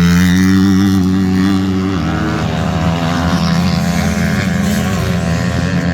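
Motocross motorcycle engines running hard on the track. One engine holds a steady pitch, then about two seconds in several engines overlap, their pitch wavering as they rev.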